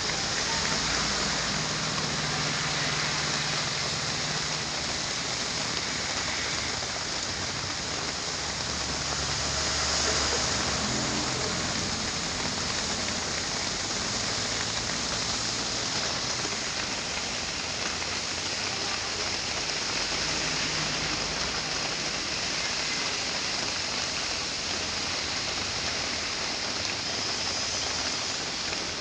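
Heavy rain pouring steadily on a dump truck as it drives, with the truck's engine running low underneath, swelling slightly about ten seconds in.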